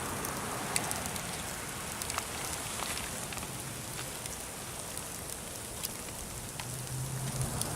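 Sleet pellets falling and ticking on hard surfaces: a steady hiss scattered with many small, sharp, irregular ticks.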